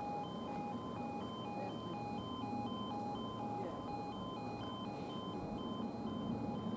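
Electronic two-tone warning alarm beeping steadily, alternating a lower and a higher tone about two or three times a second, over a low background hum.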